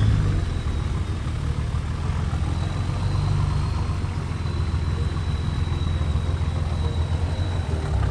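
Nissan GQ Patrol 4WD engine running steadily at low speed on a rough track, a low even rumble, with a faint thin high whine through the middle.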